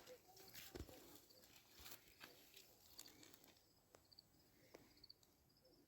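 Near silence, with faint scattered clicks and soft, repeating high chirps from about halfway on.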